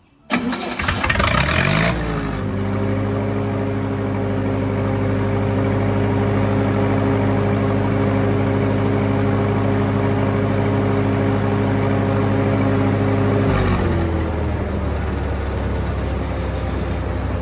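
Lincoln SA-200 welder's engine being cranked by its starter for about a second and a half, catching and rising to a steady run. Near the end it drops to a lower, steady speed.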